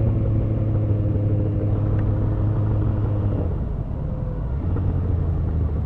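Motorcycle engine, a Yamaha FZ1 inline-four, running at a steady cruise over wind noise on a helmet-mounted camera; its note drops lower about three and a half seconds in.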